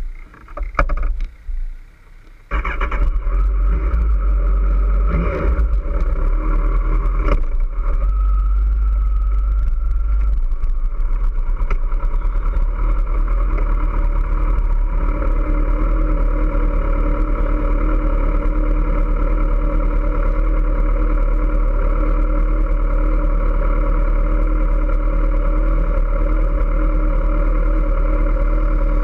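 Kawasaki ZX-14R's 1441 cc inline-four idling steadily close to the camera. It comes in abruptly about two and a half seconds in, after a few clicks, and holds an even, unrevved note.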